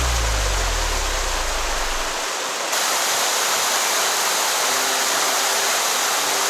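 Steady rush of a mountain headwater stream flowing over rocks. The tail of a low background music tone fades out during the first two seconds.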